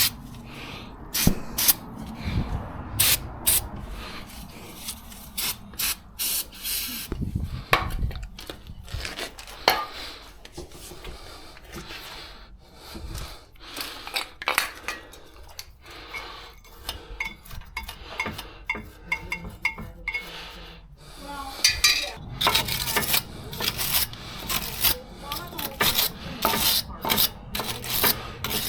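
Hand tools at work on a car: irregular metallic clicks, knocks and clinks with scraping and rubbing between them, becoming a quicker run of clicks near the end.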